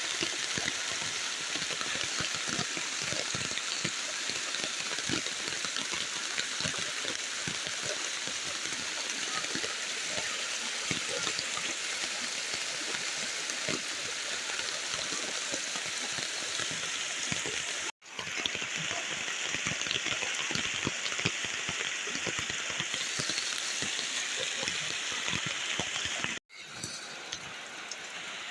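Heavy rain falling, a steady hiss with a dense patter of drops, mixed with the rush of the flooded river. The sound cuts out briefly twice, and is quieter after the second break near the end.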